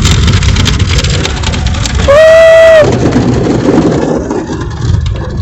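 Car wash machinery and water spray running in a loud, steady rush, cut through about two seconds in by one loud, steady tone lasting under a second.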